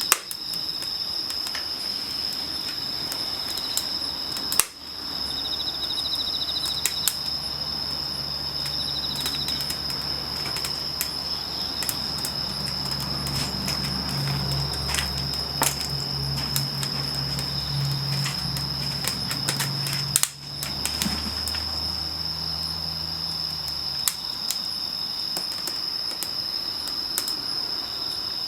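A steady high-pitched chirring of insects, cricket-like, with scattered sharp crackles and pops from a wood campfire, three of them louder. A low hum comes in about five seconds in and stops about four seconds before the end.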